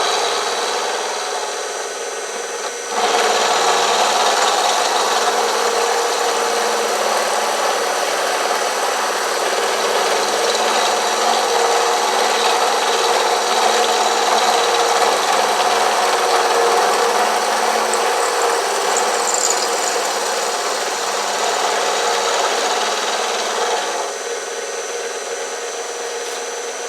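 Milling machine running, its end mill cutting metal away to leave the arbor's two dog ears: a steady cutting noise over a constant spindle hum. The cut gets sharply louder about three seconds in and eases off about three seconds before the end.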